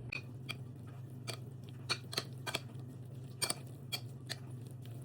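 A spoon clicking and scraping against a bowl while potato salad is mixed with mayonnaise: about a dozen irregular sharp taps over a steady low hum.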